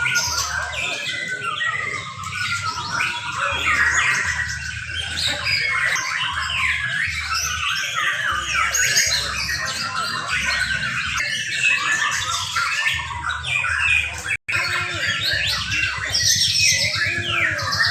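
Several young white-rumped shamas (murai batu) singing at once in a contest, a dense, overlapping jumble of varied whistles, chirps and squawks. The sound drops out for an instant about two thirds of the way through.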